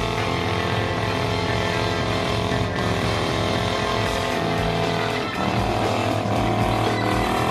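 Car engine held at high revs during a burnout, running steadily, with a brief dip in revs about five seconds in before climbing back.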